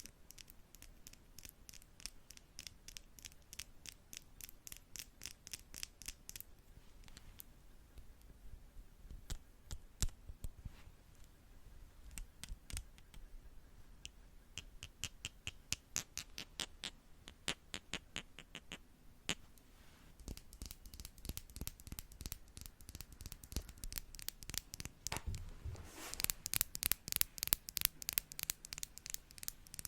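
Makeup brush stroking and tapping close on the microphone: quick, evenly paced scratchy strokes, a few per second. They grow louder and fuller in the last few seconds.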